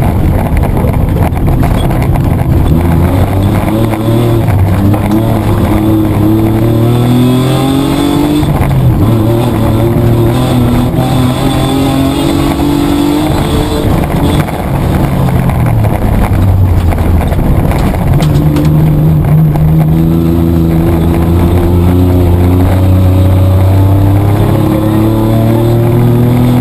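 Mitsubishi Triton's petrol engine, heard from inside the cabin, pulling hard under racing load: its note climbs, falls back at gear changes and then rises steadily through the second half, with scattered knocks from the rough track.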